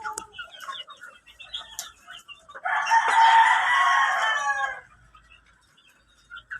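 A rooster crows once, loud and about two seconds long, trailing down in pitch at the end, with scattered short clucking calls around it.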